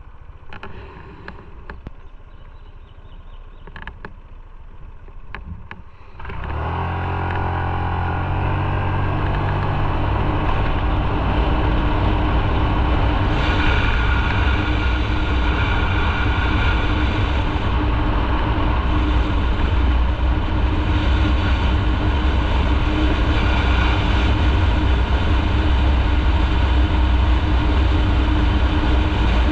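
Motorcycle engine, quiet for the first few seconds, then pulling away about six seconds in with rising revs, and running steadily loud at riding speed with wind and road noise.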